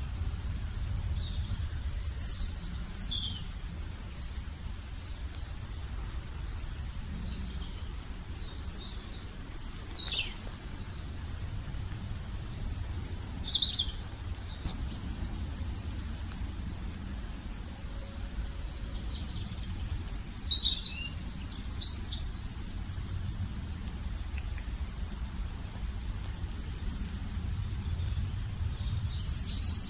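Wild songbirds chirping and calling in scattered short, high-pitched phrases, busiest a little past two-thirds of the way through, over a steady low rumble.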